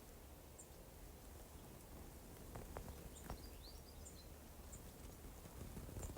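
Faint outdoor quiet with a few brief, high bird chirps scattered through it.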